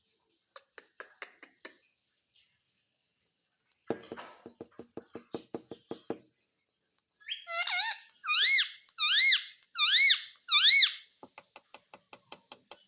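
Pet parrot giving a series of about five loud, shrill calls that each rise and fall in pitch, in the middle, with quick runs of rapid clicking before and after.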